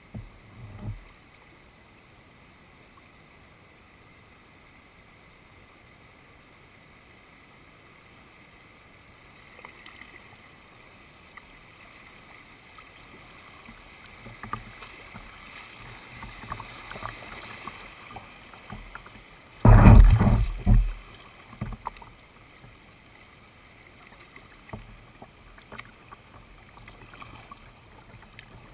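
Kayak paddling on a river: paddle strokes and water splashing and dripping that grow busier partway through, with a few knocks at the start and one loud rumbling thump about two-thirds of the way in.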